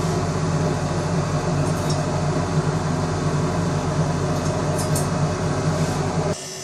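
Steady mechanical hum of workshop equipment, with a couple of faint light clinks; the hum cuts off abruptly near the end.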